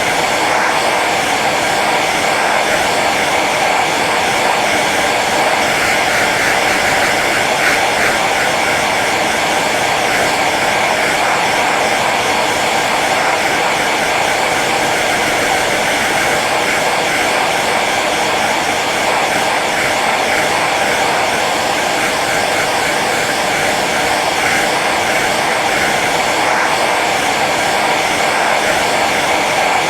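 Hair dryer running steadily on its low setting: an even blowing whir of fan and airflow, with no change in pitch or level.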